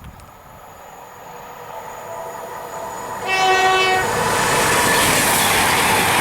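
Class 221 Super Voyager diesel train approaching at speed and growing louder. It sounds one short, steady horn note about three seconds in, then passes close by with a loud rush of wheel and air noise.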